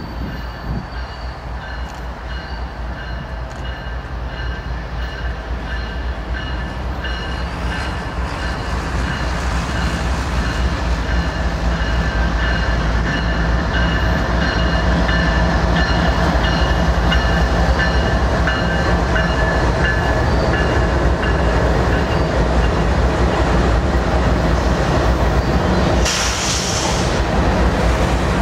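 Diesel locomotives leading a loaded crude oil tank train approach and pass: a low engine rumble growing steadily louder over roughly the first fifteen seconds, with thin steady high squeals from the wheels. The tank cars then roll by, with a brief hiss near the end.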